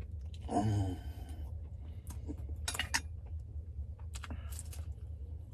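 Light clinks and clicks of tableware during a meal, a few separate ones, over a steady low hum. A short pitched sound comes about half a second in.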